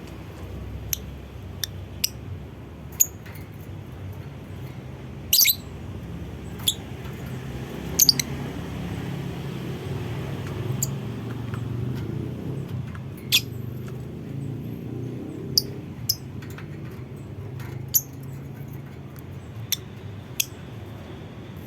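Lovebird giving short, sharp, high chirps one at a time at irregular intervals, about fifteen in all, over a steady low rumble.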